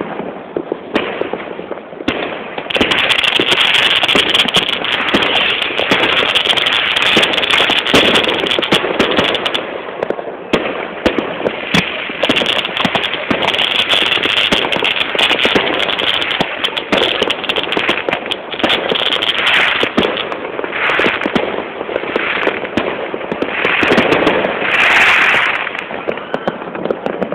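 Fireworks going off: a long run of dense, rapid crackling and popping that gets louder about three seconds in, with a hissing burst near the end.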